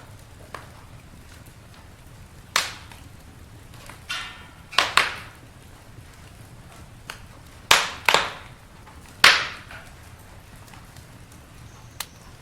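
Campfire crackling: burning wood giving off a series of sharp pops and snaps, about half a dozen loud ones scattered irregularly, over a low steady rumble of the flames.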